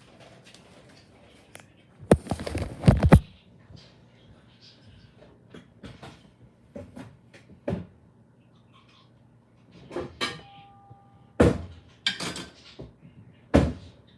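Microwave oven being handled: its door clunking open and shut and dishes clattering, with a short electronic beep about ten seconds in.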